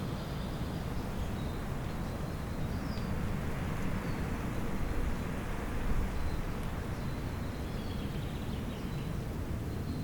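Outdoor spring ambience: a steady low rumble and hiss with faint, scattered bird chirps.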